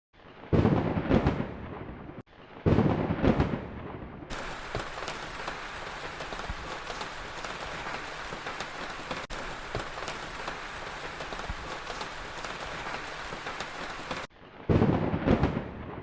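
Heavy rain falling steadily, broken by three loud claps of thunder: one near the start, one about three seconds in and one near the end, each dying away over a second or so.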